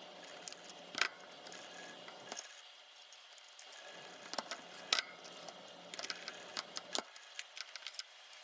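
Irregular small clicks and ticks of tools and small parts being handled while a compact digital camera is worked on, the sharpest about a second in and five seconds in, with a cluster of lighter ticks near the end.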